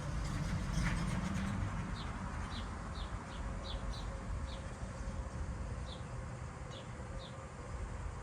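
Hummingbird chip notes: about a dozen short, high, downward-sliding chips at irregular intervals. A low vehicle rumble fades out in the first second or two.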